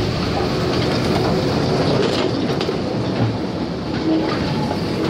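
Diesel shunting locomotive passing close by with a short goods train, the wagons' wheels rolling over the rails as a van and a flat wagon go past.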